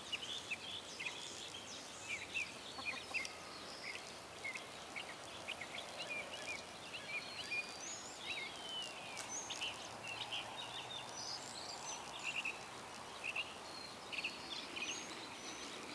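Birds chirping and calling in many short, high notes scattered throughout, over a faint steady outdoor background hiss.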